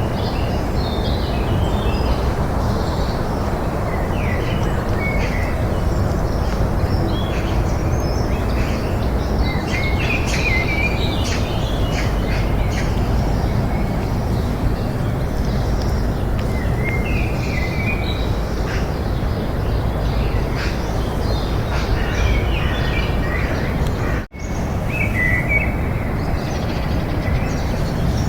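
Small birds chirping and calling on and off over a steady low outdoor rumble. The sound cuts out for an instant about four seconds before the end.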